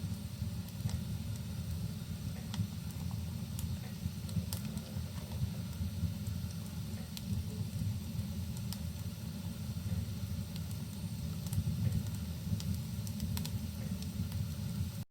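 Rain and a crackling wood fire: a steady low rumbling hiss with sharp fire crackles popping out roughly once a second.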